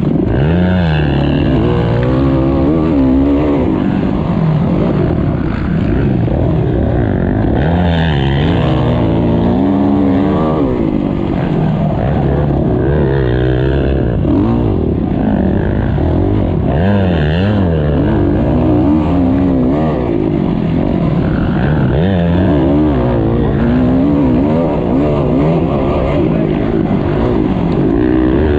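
Motocross bike engine heard onboard, racing over a rough dirt track: its pitch rises and falls over and over as the throttle is opened and closed and the bike shifts through the gears.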